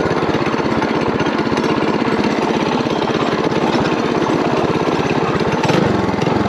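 Coleman mini bike's small single-cylinder engine running steadily, its fast, even firing pulses heard close up while riding.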